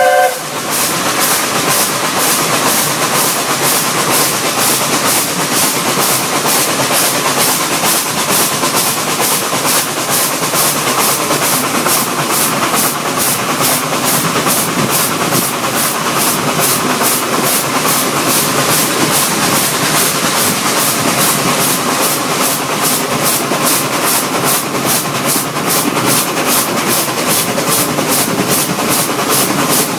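Ex-South African narrow-gauge steam locomotive working along the line, its exhaust beats coming at a steady quick rhythm over a hiss of steam and rail noise.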